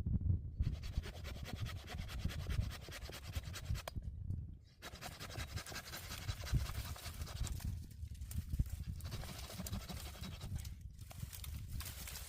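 Hand saw cutting wood in rapid back-and-forth strokes, sped up to double speed, with short breaks about four, eight and eleven seconds in.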